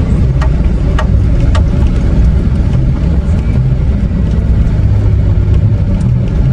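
Flatbed tow truck's engine running steadily at low speed, heard from inside the cab, with a few evenly spaced sharp clicks in the first couple of seconds.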